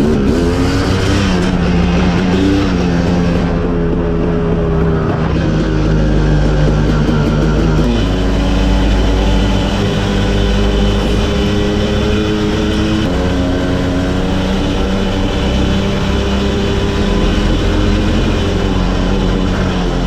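Dirt bike engine running while riding, holding fairly steady revs, with its pitch shifting in steps every few seconds.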